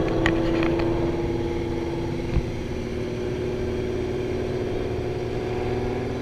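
Car engine running at a steady cruising speed while driving, heard from inside a moving car. A few sharp clicks come near the start and a single thump about two seconds in.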